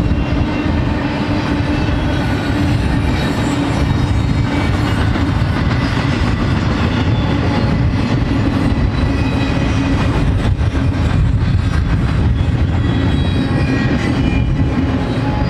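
BNSF double-stack intermodal freight train rolling past: a steady rumble and clatter of the container well cars' wheels on the rails.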